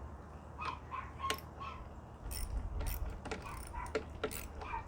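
Hand ratchet with a socket and extension turning a fastener on a lawn mower, giving irregular clicks with short metallic squeaks.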